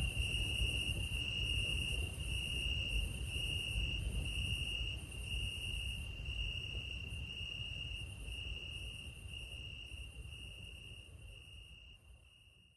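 Night crickets chirping in a steady, even trill of pulses about twice a second, over a low rumble, fading out near the end.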